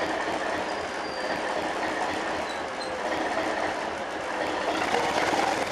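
Northern Ireland Railways Class 450 diesel multiple unit running slowly alongside the platform, its wheels rumbling on the rails with a few faint brief squeals. The sound grows louder near the end.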